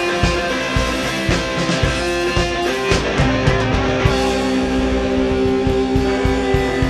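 Live rock band playing an instrumental stretch of a song: guitars holding sustained notes over steady drum hits.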